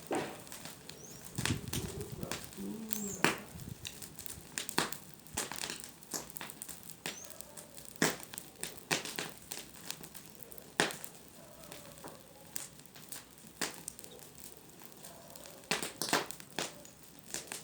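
Bonfire of dry wood and brush burning, crackling with irregular sharp pops and snaps.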